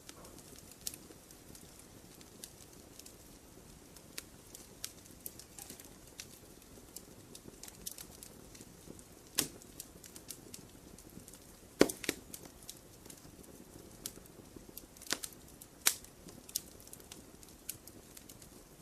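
Wood campfire burning with a low steady hiss and scattered crackles and pops, several sharper snaps standing out about halfway through and again near three quarters of the way in.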